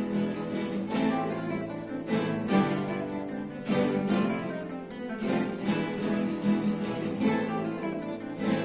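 Ensemble of classical acoustic guitars playing a Spanish-style dance, plucked melody over rhythmic strummed chords.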